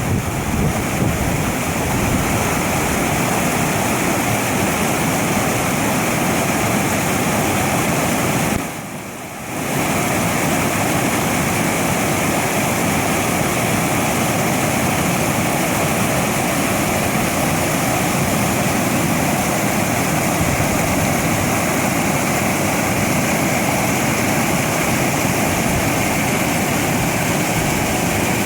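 A river's water rushing steadily, a dense, even rush; it drops away briefly about nine seconds in.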